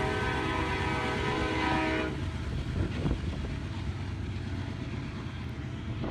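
Horn of a Union Pacific SD70ACe diesel locomotive sounding a held chord that cuts off about two seconds in, leaving the low rumble of the passing train with a couple of knocks around three seconds in.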